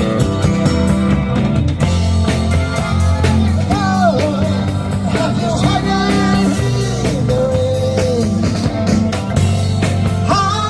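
Rock music with guitar, bass and a steady drum beat: the closing bars of a song, with no words sung. The recording cuts off at the very end.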